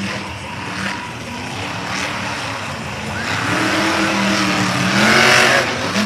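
Monster truck engine revving hard during a freestyle run, its pitch swinging up and down and climbing to its loudest about five seconds in.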